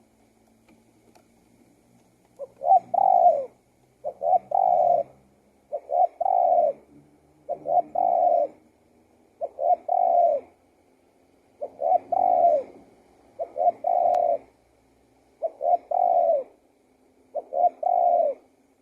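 Spotted dove cooing: nine phrases a little under two seconds apart, each two short coos followed by a longer falling coo.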